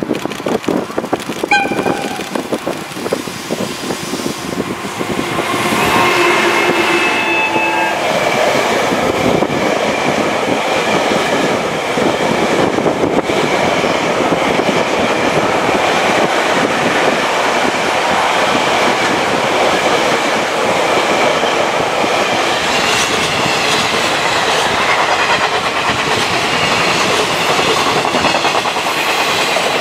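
Freight train passing close: an EF210 electric locomotive sounds its horn within the first few seconds, then its train of unpowered Tobu 60000 series EMU cars rolls by with a steady rumble and wheels clacking over the rail joints, while a container freight train also runs past near the end.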